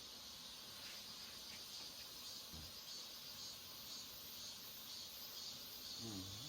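Crickets and other night insects chirring steadily and faintly. A faint low voice murmurs near the end.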